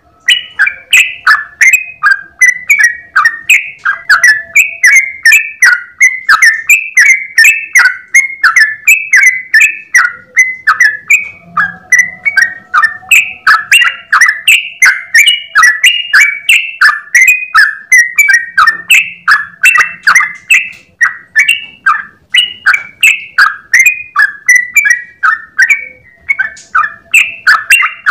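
Yellow-vented bulbul (trucukan) singing a long unbroken run of rapid chattering notes, about three a second, with a short break near the end.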